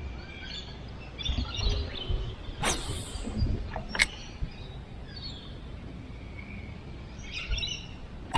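Wild birds chirping and calling on and off, over low rumbling handling or wind noise, with two sharp knocks a little over a second apart near the middle.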